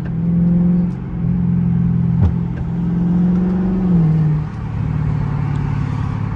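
Dodge Charger 392's 6.4-litre HEMI V8 running at low, steady revs under light throttle, its pitch stepping down about four seconds in. A single sharp knock about two seconds in.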